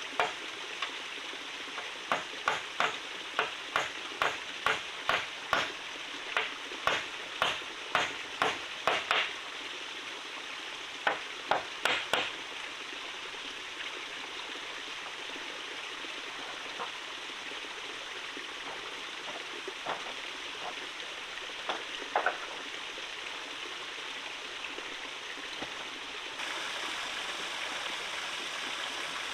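Sharp knocks, about two a second for several seconds, then a few scattered ones, over a steady rush of running water that grows brighter near the end.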